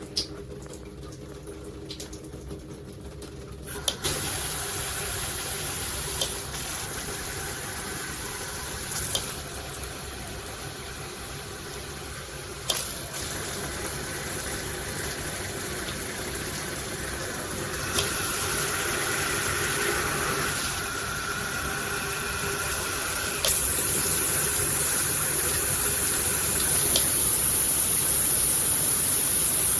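Handheld shower head spraying water steadily, with a sharp click every few seconds as the spray setting is switched; the spray's sound changes and gets louder in steps, most of all a few seconds in and near the end.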